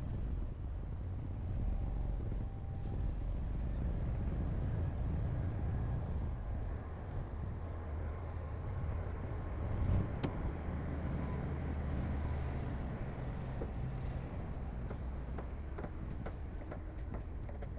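Heavy construction machine's diesel engine running with a steady low rumble, a sharp clank about ten seconds in and a few light clicks near the end.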